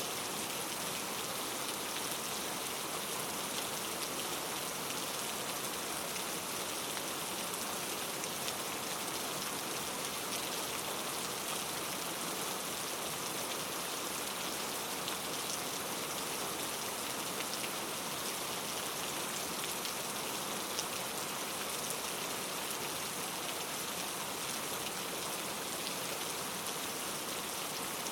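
Steady rain falling, a constant hiss with many fine drop ticks.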